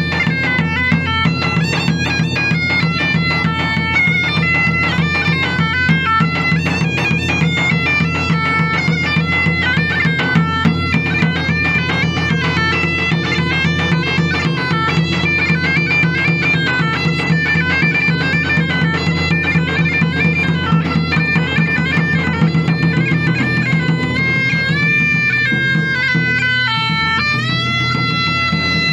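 Bagpipes playing a fast melody over a steady drone, the tune settling into longer held notes near the end.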